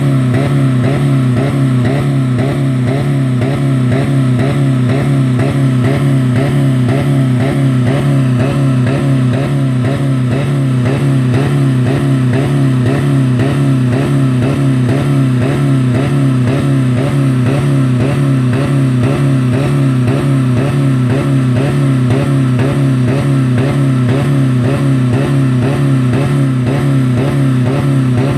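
2000 Dodge Neon's four-cylinder engine held flat out at about 4000 rpm against the rev limiter, running steadily with a regular pulse about twice a second. It is running with no oil or coolant left in it.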